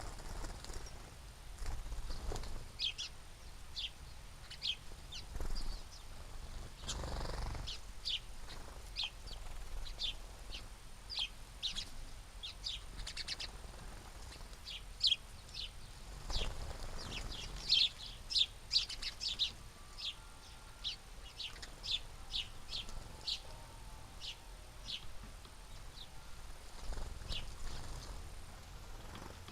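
Small birds chirping at a feeder: many short, high chirps, scattered and repeated. Twice a brief low rumble passes under them.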